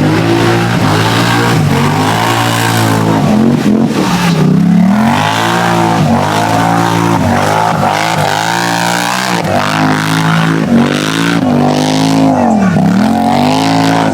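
Off-road vehicle engine at full throttle through deep mud, revving hard. The engine pitch repeatedly dips and climbs again about every second or so as the throttle is worked and the wheels bog and spin free.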